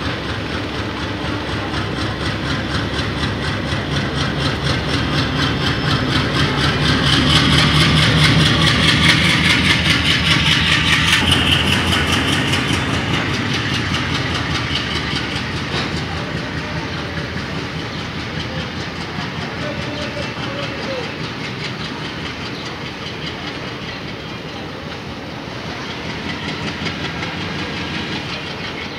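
Indian Railways passenger train, a diesel locomotive and its coaches, passing close beneath, the wheels clattering rhythmically over the rail joints. The clatter swells to its loudest about a third of the way in, then slowly eases as the coaches roll on.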